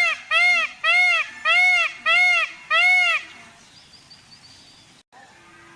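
Indian peafowl (peacock) calling a rapid series of short, loud, honking notes that rise and fall in pitch, about two a second, ending about three seconds in.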